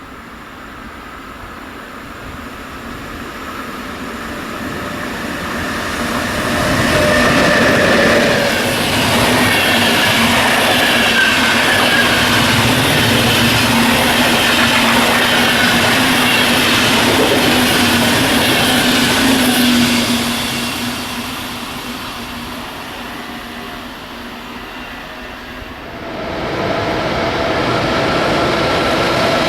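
A train passing at speed on the rails: the sound swells as it approaches, stays loud for about twelve seconds with a steady hum, rail noise and a wheel squeal, then eases off, and a second rise of train noise begins near the end.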